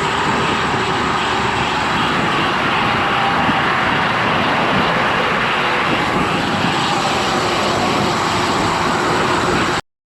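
Steady rushing noise of strong wind on a bicycle-mounted camera microphone while riding, mixed with highway traffic. It cuts off suddenly near the end.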